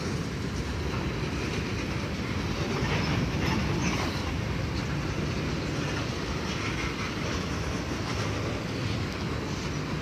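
Norfolk Southern mixed freight train cars rolling past: a steady, even rumble of steel wheels on rail, with scattered clicks and clanks from the wheels and cars.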